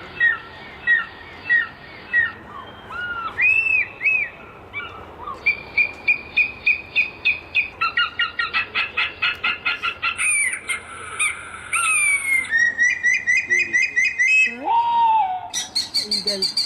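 Bird calls of several different kinds, one after another: repeated chirps and whistled notes in quick series, each series breaking off sharply as the next begins.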